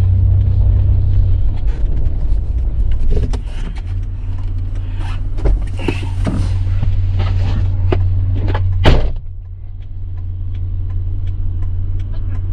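A vehicle engine idles with a steady low hum, with scattered knocks and clatter over it. A loud sharp knock comes about nine seconds in.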